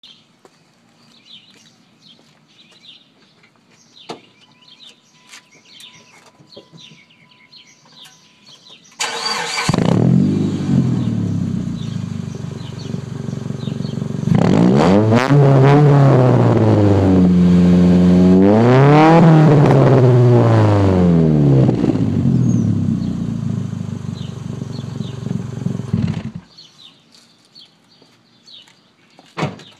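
Mitsubishi Eclipse GS 2.4-litre four-cylinder engine with a Raven muffler and the catalytic converter and resonator deleted: it cranks and starts about nine seconds in, idles, is revved up twice and allowed to fall back, then idles again and shuts off a few seconds before the end.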